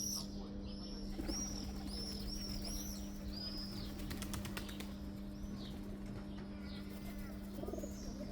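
Small birds chirping: many short, arched, high notes repeating, over a steady low hum. A brief run of clicks comes about four seconds in.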